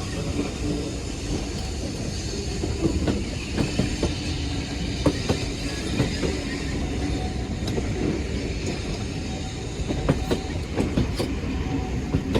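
Steam-hauled heritage passenger train running along the track: a steady rumble with wheels clicking irregularly over the rail joints.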